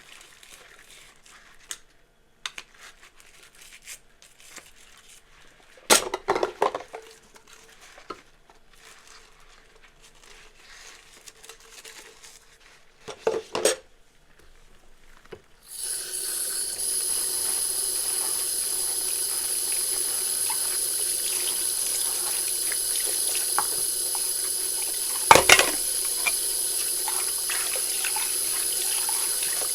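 Dishes being washed in a kitchen sink. At first there are scattered clinks and two louder clatters of crockery. About halfway through the tap is turned on and water runs steadily into the sink, with one more sharp knock of a dish near the end.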